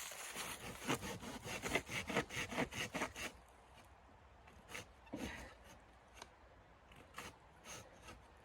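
Quick rasping strokes, about four or five a second, for the first three seconds, then a few scattered scrapes and knocks.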